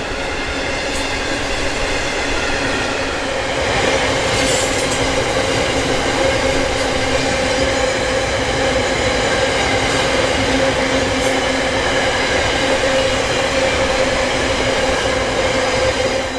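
Loaded iron ore hopper wagons rolling past on steel wheels, with a steady, ringing wheel squeal and a few sharp clicks as wheels cross rail joints.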